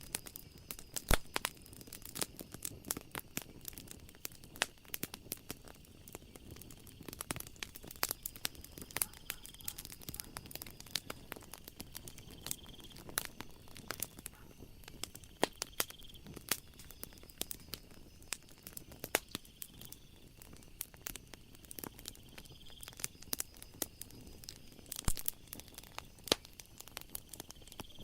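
Wood fire crackling and popping in a fireplace, a dense run of sharp snaps, the loudest about a second in. A faint high insect chirp, likely crickets, repeats every few seconds behind the crackle.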